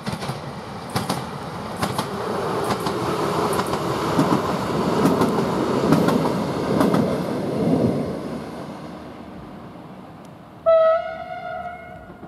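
A Newag Impuls EN63A electric multiple unit passing, its wheel and running noise rising to a peak about six seconds in and then fading away, with a sharp click about once a second in the first few seconds. About eleven seconds in, a train horn sounds one blast of about a second and a half, the Rp1 'attention' whistle signal.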